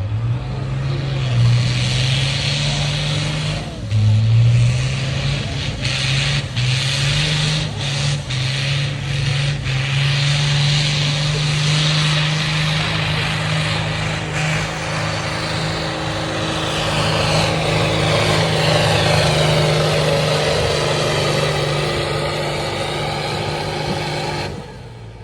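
Pulling tractor's engine running hard at high revs under load, its pitch stepping up a few seconds in and then holding steady. A high whine sweeps up and down over it. The engine sound cuts off abruptly near the end.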